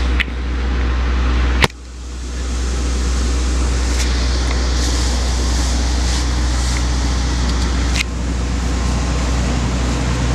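Steady low drone of a large engine running at idle, with a constant low hum under a broad rumble. Sharp clicks interrupt it three times, the loudest a little under two seconds in, after which the sound drops briefly and swells back.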